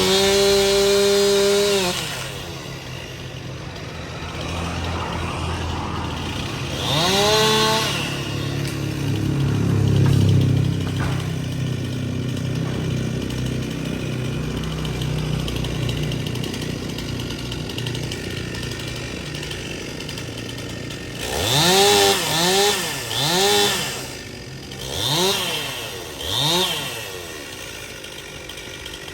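Two-stroke Stihl chainsaw running, with its engine pitch climbing under throttle: held high for a couple of seconds at the start, revved again about seven seconds in, and blipped several times in quick succession near the end, settling back to a lower steady run in between.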